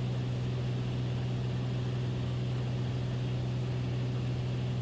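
Beechcraft Bonanza's piston engine and propeller droning steadily in flight, heard in the cockpit as an unchanging low hum over a wash of noise.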